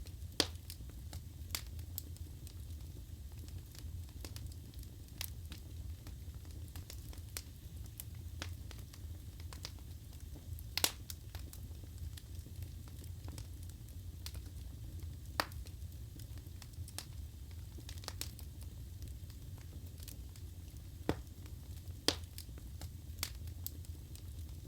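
Wood fire burning in a fireplace: a steady low rumble of flames with irregular crackles and a few sharper pops of the burning logs.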